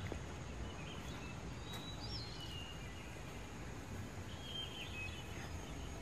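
Quiet outdoor ambience: a low steady rumble with a few short, high bird chirps about two seconds in and again near four and a half seconds.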